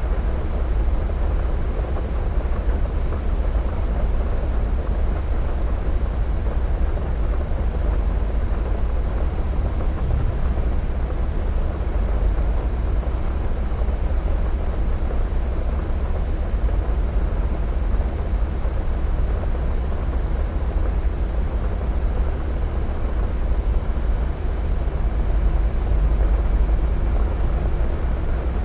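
Steady rumble of a Boeing 737's jet engines, mixed with wind noise on the microphone, holding an even level without rising or falling.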